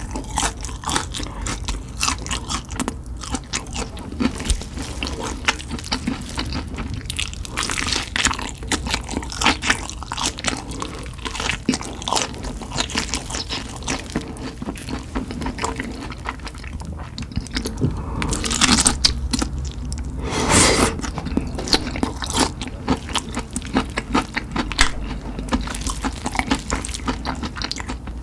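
Close-miked chewing and crunching of spicy fried chicken: a steady run of crisp crackles, with a louder spell of crunching about two-thirds of the way through.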